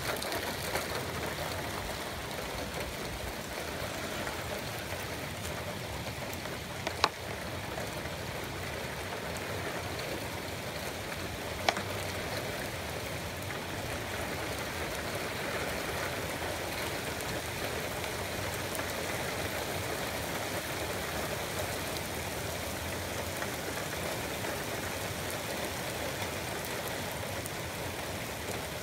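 Steady rain falling outside, an even hiss, with two short sharp clicks about 7 and 12 seconds in.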